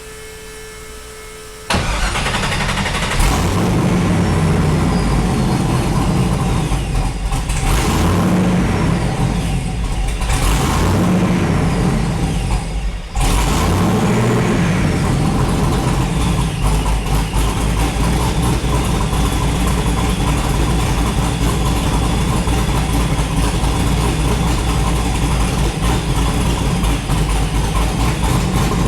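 Supercharged Nissan 240SX engine starting about two seconds in, its speed dipping and picking up a few times before it settles into steady running with a thin high whine over it.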